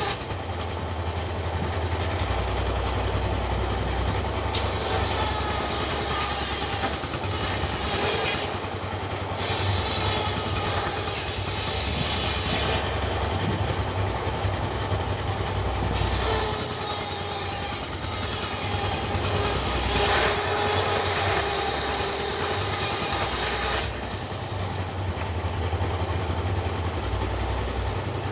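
Engine-driven wood-processing machinery running with a steady low hum and rattle; a higher hiss comes in and drops out in stretches of a few seconds.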